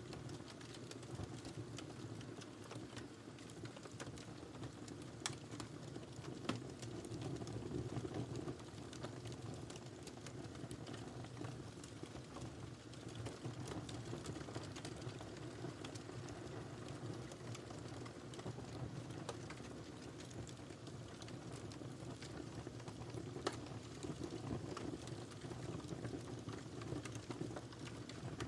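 Wood fire burning in a fireplace: a steady low rumble of flames with frequent irregular crackles and pops from the burning firewood.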